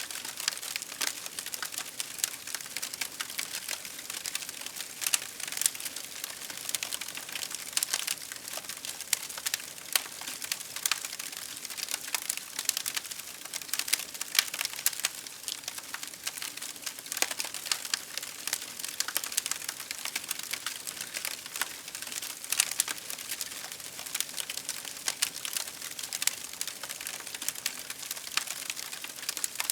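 Wood fire crackling: dense, irregular pops and snaps over a steady hiss of burning.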